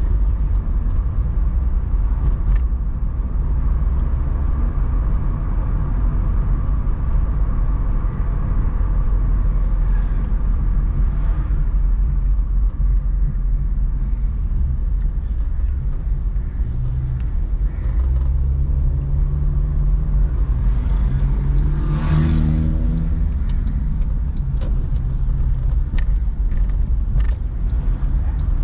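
Steady low rumble of a car driving in city traffic. From about 16 seconds in a vehicle's engine grows louder, peaking around 22 seconds in.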